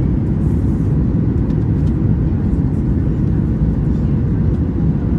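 Steady low rumble of a Boeing 737-800 heard from inside the passenger cabin, its engines and airflow running at an even level, with faint light rattles over it.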